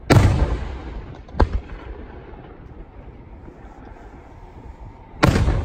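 Aerial firework shells bursting: a loud bang with a long rumbling echo just after the start, a shorter, sharper bang about a second later, and another loud bang with an echo near the end.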